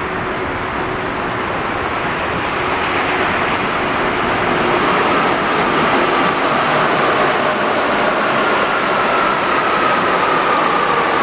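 Alstom NS-74 rubber-tyred metro train running, a steady rumbling rush that slowly grows louder. A faint high whine comes in about halfway and dips slightly in pitch near the end.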